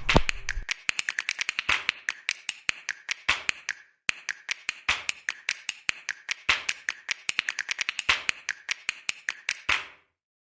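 Rapid series of sharp clicks, several a second, from hand tools working on a go-kart. The clicks pause briefly about four seconds in and stop shortly before the end.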